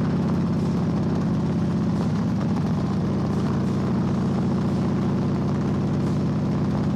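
Harley-Davidson Dyna's V-twin engine running steadily, its pitch holding level with no revving.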